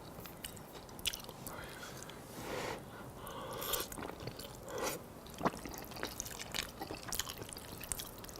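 A person chewing a mouthful of spaghetti with ground beef sauce close to the microphone, with scattered short mouth clicks and smacks.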